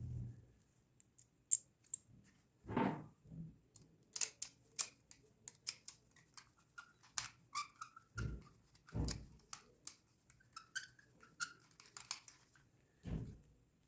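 Small metal carburetor parts clicking and clinking as they are handled and fitted back together, with a few dull thumps and brief squeaks.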